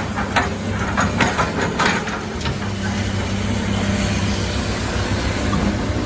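Heavy diesel engine running steadily with a low hum, with a string of sharp metallic knocks in the first two or three seconds.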